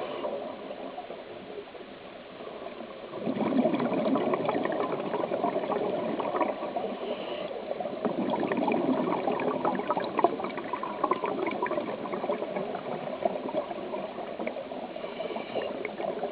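Water bubbling and gurgling steadily, with many small crackles, growing louder about three seconds in.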